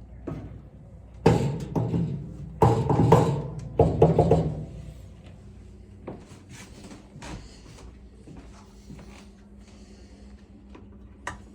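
Three loud clattering knocks about a second apart, with a ringing resonance, followed by lighter clicks and taps as the dryer's parts are handled during disassembly.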